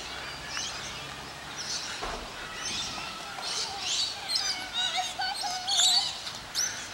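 Birds chirping and calling outdoors, a few calls at first and a busier run of short chirps and warbling calls through the second half.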